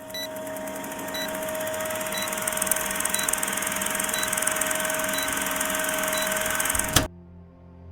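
Electronic sound: a steady hiss with a steady hum-like tone and a short high beep about once a second, cut off abruptly with a click about seven seconds in.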